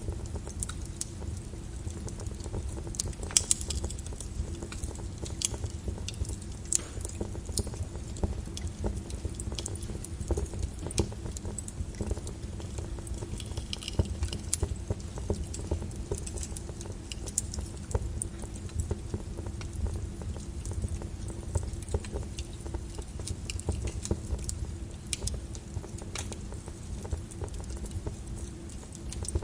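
Flowing lava crackling, with irregular sharp clicks and crackles over a steady low rumble.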